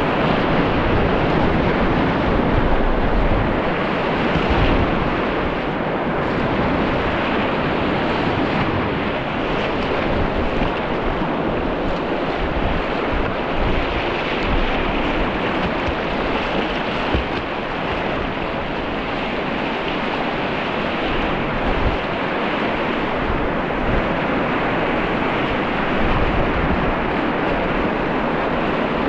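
Mountain river water rushing steadily, a continuous loud whitewater noise, with wind buffeting the microphone in low rumbles.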